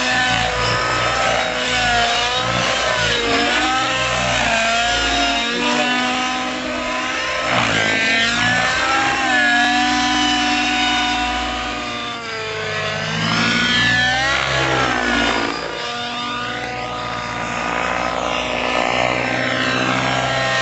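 Radio-controlled nitro helicopter with a YS 91SR glow engine running hard in flight, its engine and rotor pitch repeatedly sweeping up and down as it manoeuvres, with sharp swells about eight and thirteen seconds in.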